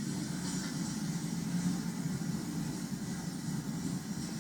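Low, steady rumble of street traffic, cars moving again through the crossing once the gates are up.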